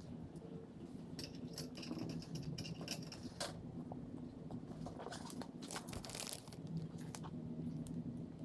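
Small scattered clicks and rustles of carburetor parts being handled and fitted back together during a carb rebuild, over a faint steady low hum.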